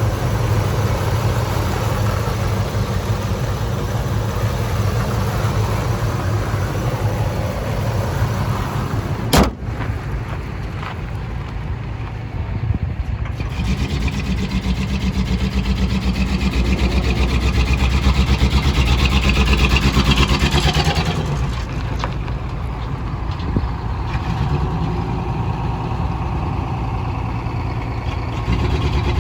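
Ford F350 dump truck engine running at idle, with one sharp knock about a third of the way in. Past the halfway point it is revved up for a few seconds, then drops back to idle.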